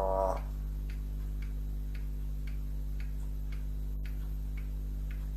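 Faint, regular ticking, about two ticks a second, over a steady hum. A short pitched, voice-like call trails off right at the start.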